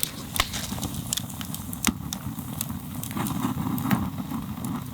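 Wood campfire crackling: scattered sharp pops over a steady low rumble.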